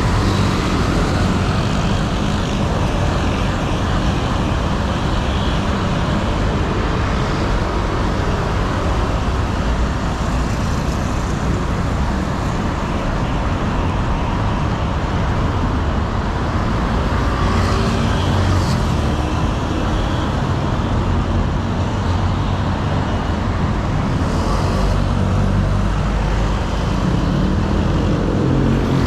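Steady city street traffic noise, with motor vehicles running past.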